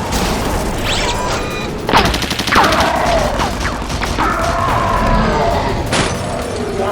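Cartoon battle sound effects: rapid gunfire and blasts with sudden crashing impacts, loudest about two seconds in, mixed with quick whooshing sweeps.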